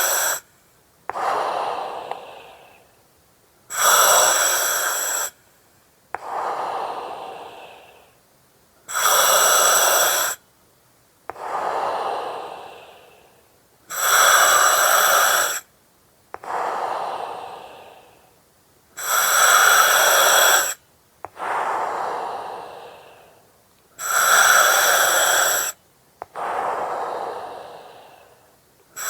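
Slow, regular breathing through an oxygen mask and its regulator: the breaths alternate between a loud, even hiss with steady whistling tones that starts and stops sharply and a softer hiss that fades out. About six breath cycles, each roughly five seconds long, with short quiet gaps between the breaths.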